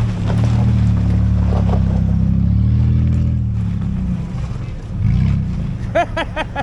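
Off-road vehicle's engine running loud under load, its pitch rising and falling as it revs, easing off after about three seconds and revving briefly again about five seconds in.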